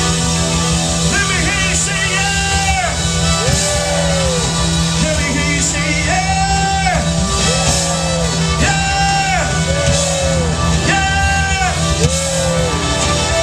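Live soul band playing, with a short melodic phrase repeated several times over a steady bass line and guitar.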